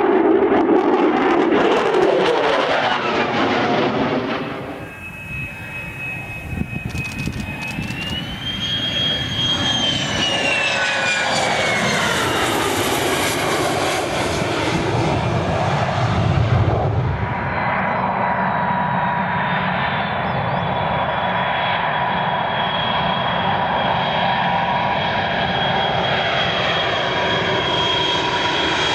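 Military jet aircraft engines: a loud jet pass that fades after a few seconds, then turbine whine that rises and falls in pitch before settling into a steady high whine over the engine noise.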